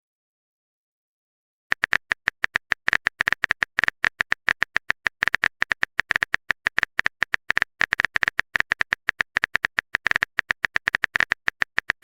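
Keyboard typing sound effect: a fast, irregular run of sharp clicks, about eight a second, starting after nearly two seconds of silence.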